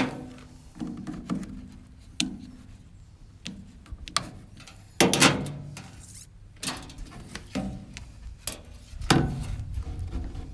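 Handling noises from fitting heater duct hose: irregular knocks, clicks and rustles of plastic parts and a zip tie being worked by hand, with a few louder sharp knocks about five and nine seconds in.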